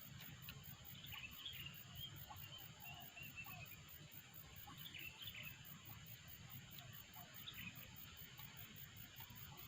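Faint rural ambience: insects trilling steadily in a high, evenly pulsing drone, with scattered short bird chirps and a low background rumble.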